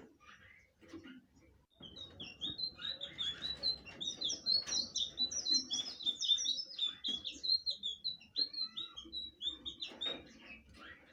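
Blue flycatcher singing a fast, unbroken run of short, high whistled notes. The song starts about two seconds in and stops shortly before the end.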